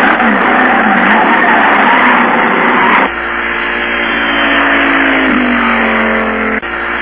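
Race car engines revving as a dubbed sound-effect track, their pitch gliding up and down over a loud rush of noise, with abrupt cuts about three seconds in and near the end.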